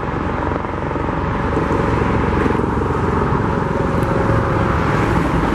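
Steady traffic noise: a continuous rumble of passing vehicles with a faint steady hum.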